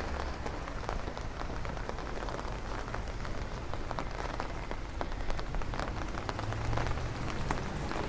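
Steady rain falling on the street, with many separate drops ticking throughout.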